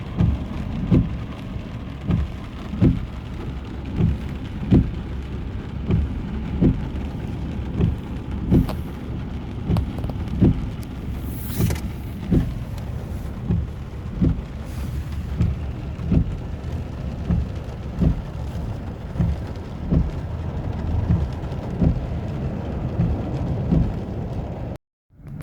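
Steady rain, with a low thud repeating about once a second throughout.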